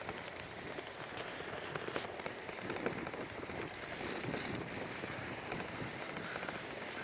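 Bicycle tyres rolling over a wet trail, a steady crackling hiss with a few small knocks.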